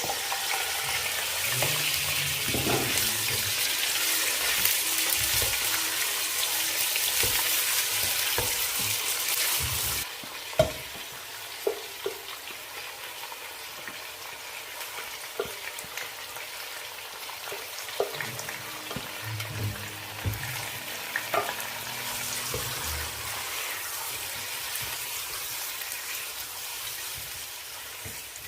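Food frying and sizzling in a hot pan, stirred with a spoon that clinks against the pan now and then. The sizzle drops suddenly to a lower level about ten seconds in.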